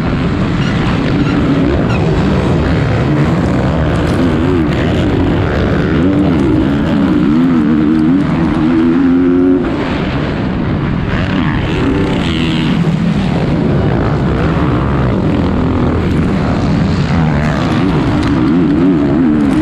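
450cc motocross bike engine racing on track, its revs climbing and dropping over and over as the rider works the throttle and gears, with a brief drop in loudness about halfway through.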